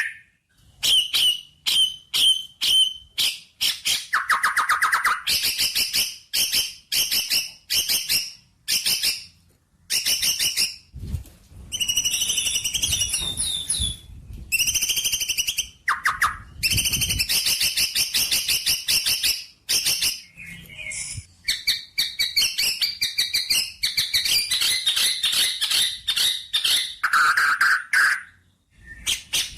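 A songbird chirping in a fast, almost unbroken run of short chirps and rapid trills, with a few brief pauses.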